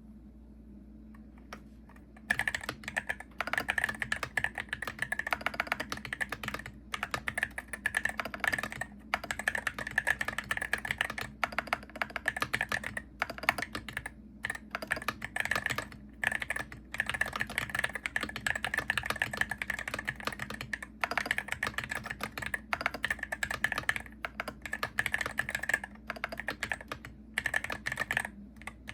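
Typing on a Hero68HE gaming keyboard: fast runs of keystroke clacks with short pauses between them, starting about two seconds in, over a faint steady low hum.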